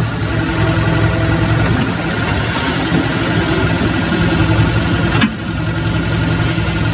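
Engine running steadily at idle, with a low hum. The sound cuts and dips briefly about five seconds in.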